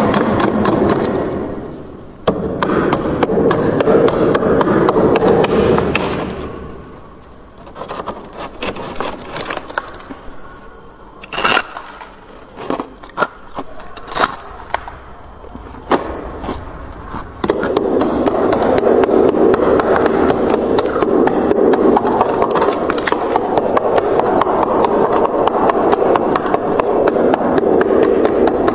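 Freezer frost crunching and crackling in dense rapid bursts. For about the first six seconds and again from about two-thirds of the way in it is a continuous gritty crackle; in between there are scattered sharp cracks.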